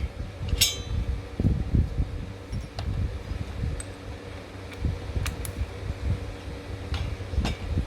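A steady low mechanical hum, with scattered knocks and clicks of tools and parts being handled against metal.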